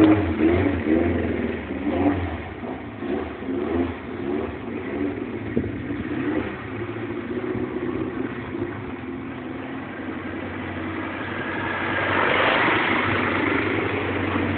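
Volkswagen Gol's engine running, its pitch wavering unevenly at first, then growing louder about eleven to twelve seconds in as it is revved.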